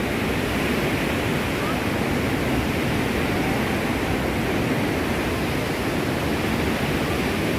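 A strong waterfall's falling water rushing: a loud, steady noise with no breaks.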